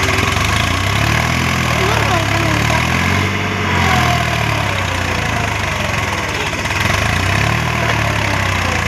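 Swaraj tractor's diesel engine running steadily.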